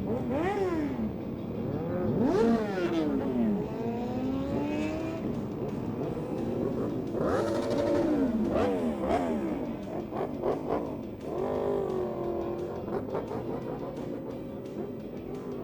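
Superbike engines revving hard in repeated sharp blips that climb and drop in pitch, with a few slower climbing runs as a bike accelerates.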